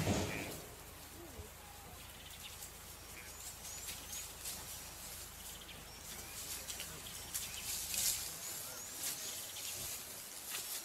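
Quiet bush ambience: a small bird's short high chirps in little runs of two or three, over a low steady hum that stops about eight seconds in. A brief louder sound right at the start.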